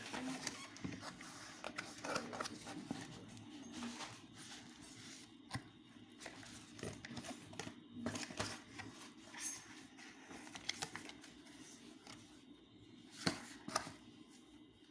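Small handling sounds: irregular light clicks, taps and rustling of things being handled at close range, with two sharper clicks near the end.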